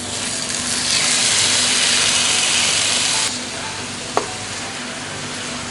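Raw marinated chicken pieces sizzling in hot oil as they go into the pan. The sizzle is loud at first and drops to a quieter steady sizzle about three seconds in. There is a single sharp click a second later.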